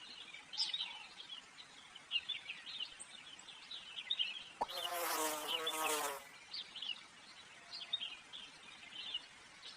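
A fly buzzing as a sound effect, one buzz of about a second and a half in the middle, its pitch wavering, over a nature bed of short high bird chirps.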